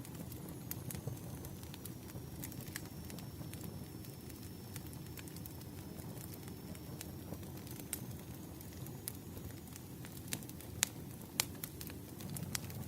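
Firewood burning: a steady low rumble of flames with scattered sharp crackles and pops, a couple of louder pops near the end.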